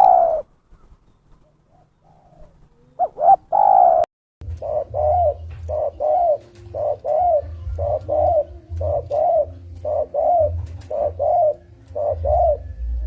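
Spotted dove (terkukur) cooing in repeated short notes, mostly in pairs about a second apart. The sound cuts off abruptly about four seconds in, and after it a low rumble runs under the calls.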